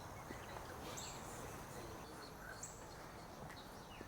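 Faint outdoor ambience with birds chirping: scattered small chirps and a couple of short, thin, very high calls about a second and a half apart over a soft background hiss.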